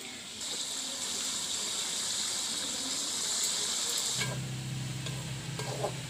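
Chicken pieces sizzling in hot oil in an aluminium karahi over a wood fire, a steady hiss. About four seconds in the sizzle drops away and a low steady hum takes over, with a few sharp taps of a metal spatula on the pan near the end.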